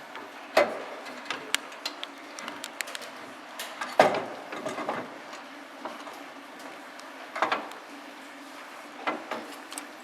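Scattered knocks and clinks of tools and parts being handled during car assembly work, over a steady background hum, with a louder knock about four seconds in.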